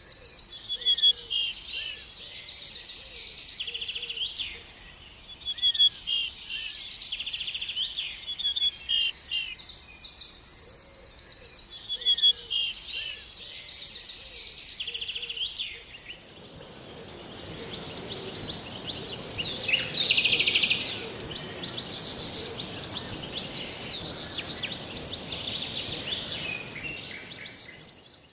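Birds singing, repeating quick chirping phrases over and over. About sixteen seconds in a steady high hiss and a wash of background noise come up, and the song carries on fainter beneath it.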